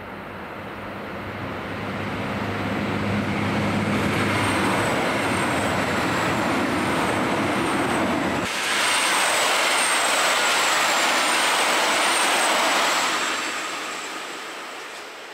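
KiHa 261 series diesel express train passing at speed. Its diesel engines hum under rail noise that grows louder as it nears. About halfway through the sound switches abruptly to the rush of wheels on rail, which fades as the train runs away.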